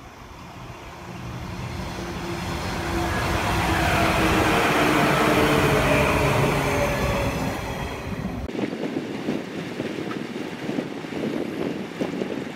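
JR Kyushu 415 series electric train passing close by: wheel-on-rail rumble and a motor whine build over a few seconds, peak, then fall in pitch as it goes past. About eight and a half seconds in, the sound cuts abruptly to a gusty rustle of wind on the microphone.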